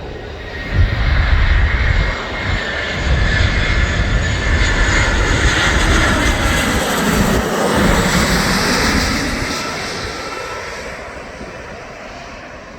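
Jet airliner's engines passing close by: loud engine noise with a whine that drops in pitch as it goes past, loudest about eight seconds in, then fading away.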